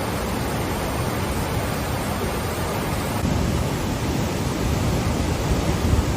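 Fast-moving, flood-swollen river water rushing in a steady, loud roar of noise.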